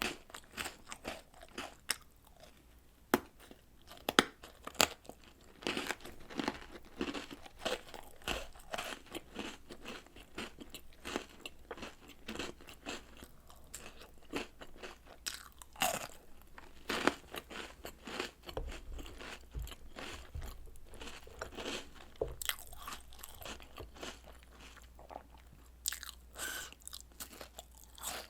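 Close-miked crunching and chewing of chocolate snacks, cookies and cereal soaked in milk, with irregular sharp crunches between softer, wetter chewing.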